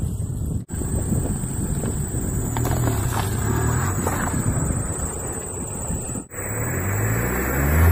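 Tata Indica car engine running at low revs as the car creeps forward over plastic juice bottles, its pitch rising and falling. The sound cuts out abruptly twice.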